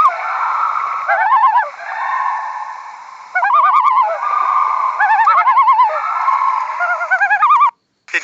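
An animal's repeated warbling calls: phrases of about a second, each with a fast wavering pitch, several of them overlapping, breaking off briefly near the end.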